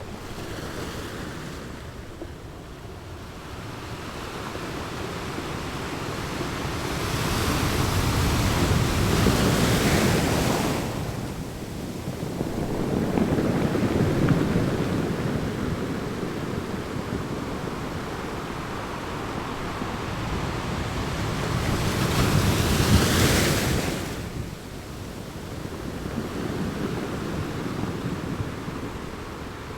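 Ocean waves rolling in and breaking on a shore, the surf rising and falling in slow swells, with two big crashes, one about a third of the way in and another near three-quarters through.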